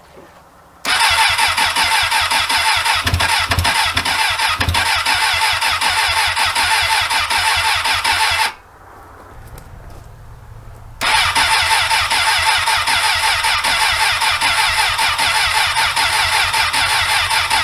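Suzuki motorcycle engine being cranked by its starter in two long attempts, the first about eight seconds and the second about seven seconds after a short pause, without catching. The engine is failing to start from cold after sitting unused for over a month in freezing weather.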